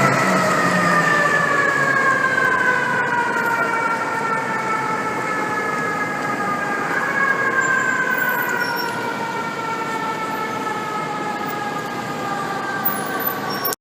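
FDNY fire engine siren wailing on a call. It winds up once just before and again about seven seconds in, and after each wind-up it sinks in pitch slowly over several seconds, gradually getting fainter.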